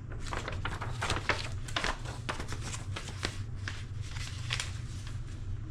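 Paper booklet pages being handled and turned: a string of short, irregular, crisp rustles over a steady low hum.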